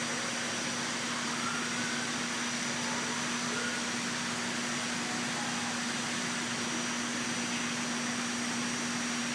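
Steady rushing background noise with a constant low hum and a faint high whine, like air-handling machinery.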